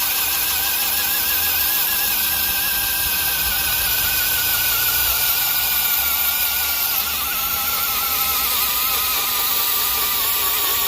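DeWalt DCD996 cordless hammer drill running continuously in first speed, driving a 1.5-inch bit under heavy load. Its motor whine wavers and sinks slowly in pitch as the load builds, then cuts off suddenly at the end.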